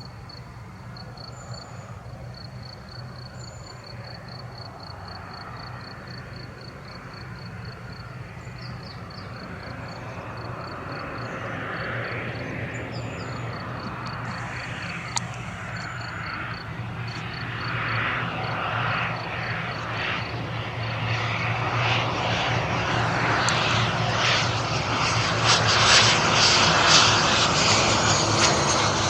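Airplane engine noise growing steadily louder as the aircraft approaches, over nearly half a minute. An insect chirps with a rapid pulsing in the quieter first part.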